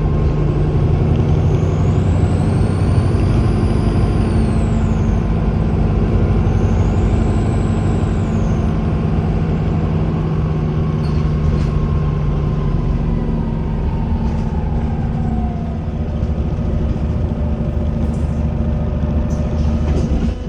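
Volvo B5LH hybrid bus's four-cylinder diesel running under way, with a high turbo whistle that rises and falls twice in the first half. Later a whine falls steadily in pitch and the engine sound eases.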